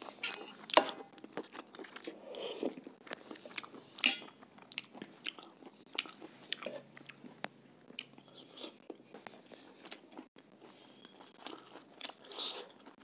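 Close-up eating sounds: a person chewing and biting chicken wrapped in roti, with many short mouth clicks and smacks. Two sharper clicks stand out, about a second in and at about four seconds.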